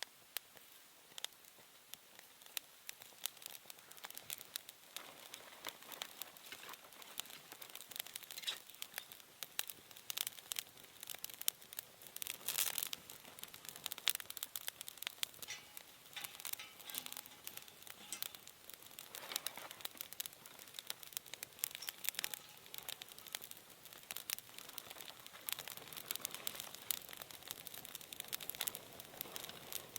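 Newly lit campfire of kindling crackling with dense, sharp pops that grow busier after a few seconds as the fire catches.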